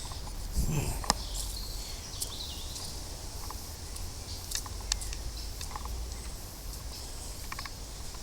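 Footsteps along a woodland path: scattered light crunches and clicks over a steady outdoor hiss, with a low rumble of wind on the microphone.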